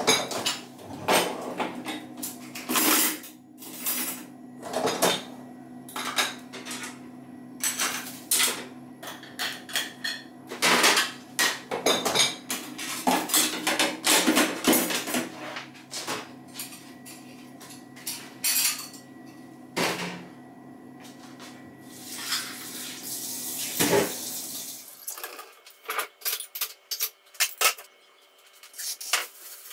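Dishes and cutlery clinking and clattering in irregular knocks, over a steady low hum that stops a few seconds before the end.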